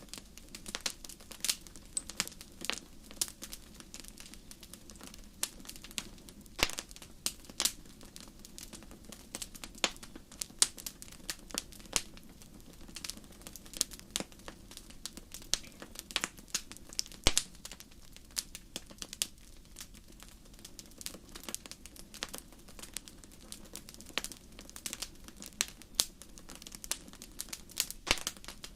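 Wood campfire crackling: frequent irregular sharp pops and snaps, some louder than others, over a steady low rumble of the flames.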